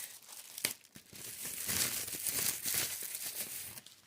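Wrapping being crinkled and torn as a small item is unwrapped by hand, a busy rustle that stops near the end.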